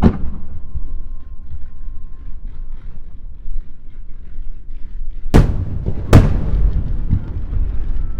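Aerial firework shells bursting: one sharp bang at the start, then two louder booms about a second apart near the middle, with a low rumble rolling on after them.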